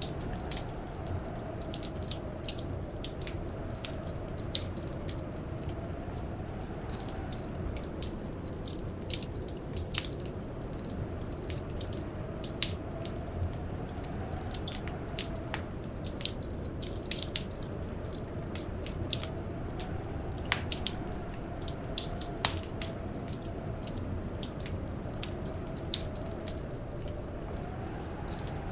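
Wood fire crackling, with irregular sharp pops and snaps over a steady low rush, and a faint moan of blizzard wind that slowly rises and falls.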